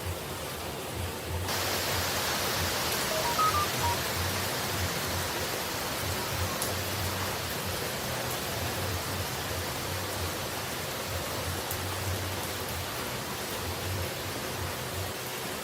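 Steady rushing noise of falling water, like a waterfall, that becomes brighter and fuller about a second and a half in and then holds even.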